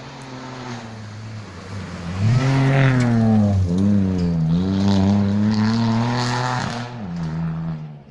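Rally car passing at full throttle. It grows loud about two seconds in, its engine pitch dropping and climbing again with gear changes, then fades as it moves away.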